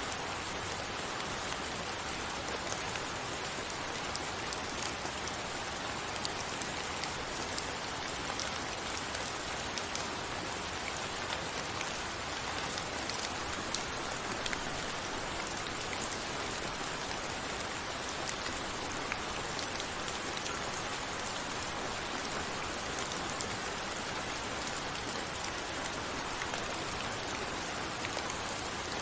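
Steady rainfall with many small drop ticks.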